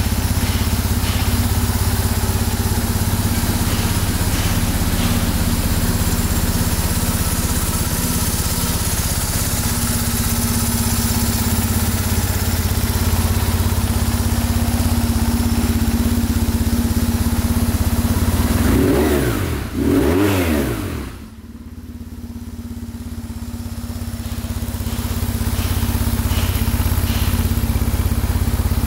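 BMW R1150R Rockster's boxer twin engine idling steadily, blipped twice in quick succession about two thirds of the way through, each rev rising and falling back to idle.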